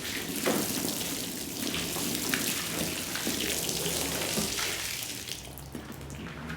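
Water running and splashing steadily as a soaked shag rug is rinsed, with a few small knocks, the rush easing off near the end.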